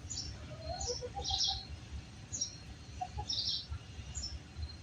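Small birds chirping: short, high chirps repeated about once a second, over a faint low rumble.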